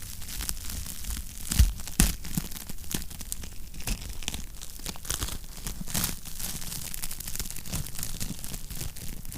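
Wood fire crackling in a fireplace: a steady run of small snaps and crackles over a low rumble, with two louder pops about a second and a half to two seconds in.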